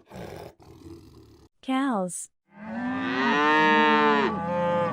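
Cow mooing: one long moo that begins about halfway through and holds to the end.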